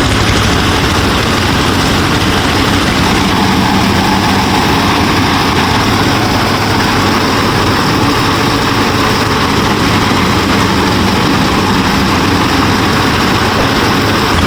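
Motor of a DIY miniature combine harvester running steadily, a loud, even mechanical hum.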